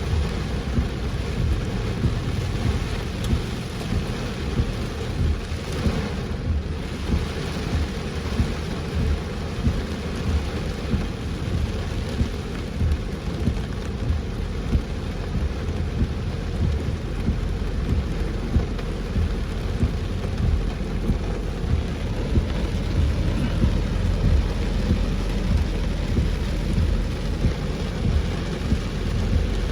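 Heavy rain drumming on a car as it drives, a dense steady rush over a low rumble, with frequent sharp hits of big drops.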